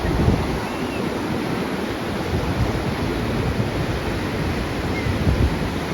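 Steady rush of hurricane-driven surf breaking, with strong wind buffeting the microphone in gusts.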